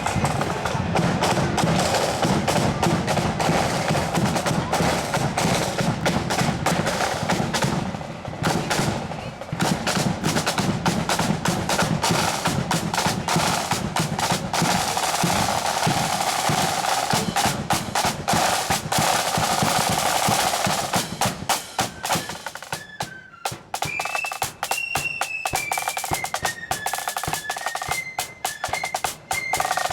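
Marching flute band: snare drums rattling in rolls over a bass drum beat. A high flute melody comes through clearly in the last third.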